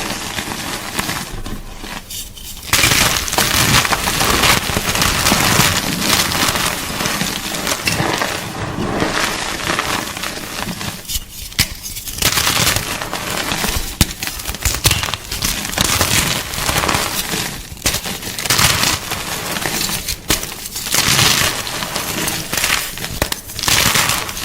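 Gym chalk being crushed, a dense crackling crunch with a few short pauses.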